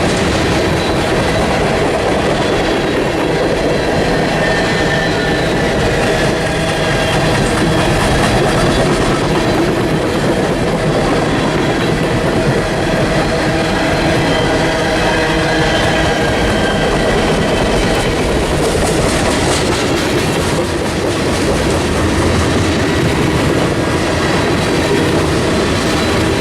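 Train cars rolling past on steel rails, wheels clicking over rail joints, with faint high wheel squeal; the sound holds steady throughout.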